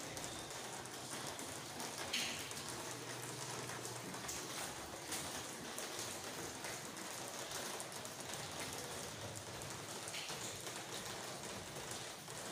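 Heavy rain falling steadily, a dense even hiss of drops on surfaces, with a brief louder splash or knock about two seconds in.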